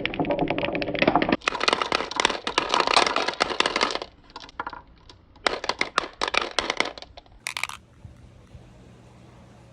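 Balls rolling down a marble-run track, a dense run of rapid clattering clicks. The sound changes abruptly about a second and a half in, then thins to scattered clicks and stops about eight seconds in.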